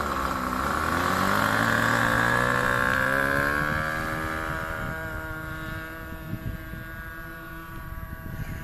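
RC model airplane's engine and propeller running, pitch dipping briefly and then rising over a few seconds before holding steady. It grows fainter over the second half.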